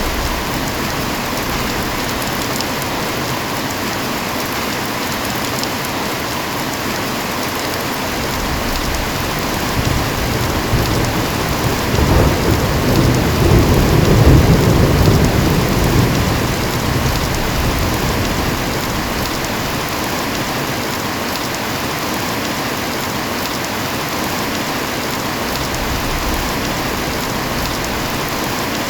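Steady heavy rain falling, with a long low rumble of thunder that builds about a third of the way in, peaks near the middle and fades away.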